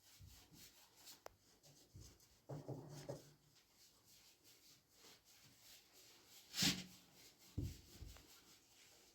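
Faint, quick rubbing strokes on a surface, with one louder, sharp scrape about two-thirds of the way through and a couple of soft knocks just after it.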